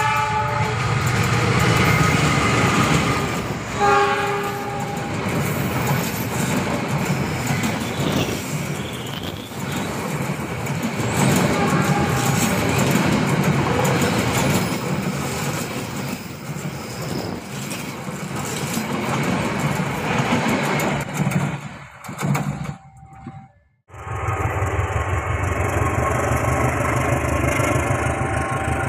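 A train passing close by, its horn sounding in short chord blasts at the start and again about four seconds in, over the steady rumble and clatter of the wheels on the rails. The rumble fades away a little after twenty seconds, breaks off, and a steadier low engine-like rumble follows.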